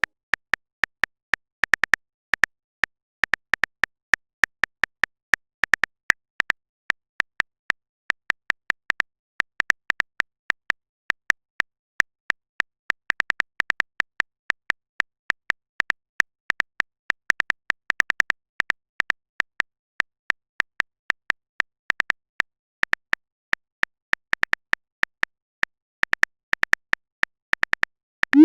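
Rapid, uneven keyboard typing clicks, like phone keyboard taps, several a second in runs with brief pauses between.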